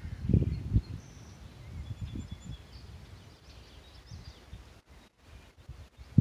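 Wind buffeting the microphone in uneven low gusts, strongest in the first second, with faint, high, short bird chirps and calls.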